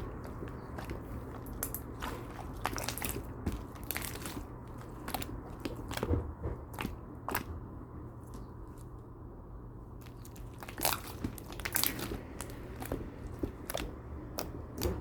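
Irregular crisp crunches and clicks over a steady low hum, quieter for a couple of seconds past the middle.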